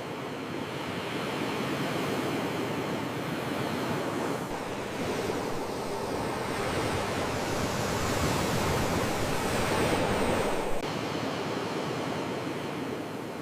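Sea waves washing ashore: a steady rush of surf that swells to its loudest about ten seconds in, then drops back suddenly.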